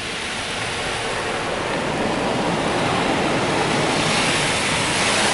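Rinse water from a Mark VII ChoiceWash XT in-bay automatic car wash spraying onto a truck's windshield and body, heard from inside the cab as a steady hiss that grows a little louder near the end.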